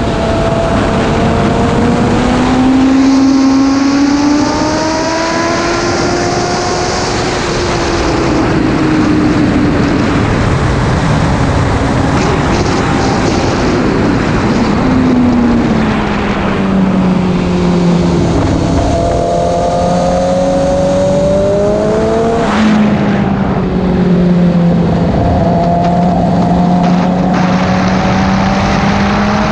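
BMW S1000RR's inline-four engine at speed on track, heard onboard. Its note climbs under acceleration and falls back repeatedly through the lap, with a sharp break and jump in pitch a little before the last quarter.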